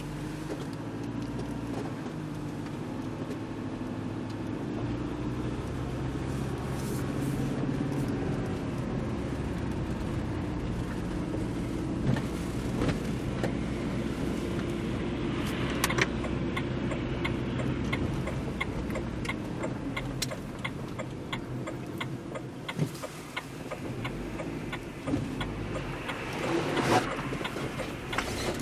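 Opel Zafira B's engine running steadily at idle, heard from inside the cabin. In the second half, sharp clicks and knocks of something being handled are scattered over it.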